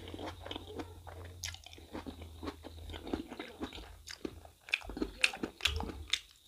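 Close-up chewing and crunching of a person eating mutton innards curry with rice, with many short wet mouth clicks, busier and louder in the second half.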